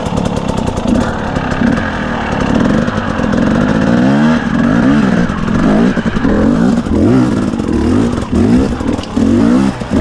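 Carbureted two-stroke engine of a 2017 KTM 250 EXC enduro motorcycle, revving up and down again and again under load as it is ridden over rough ground.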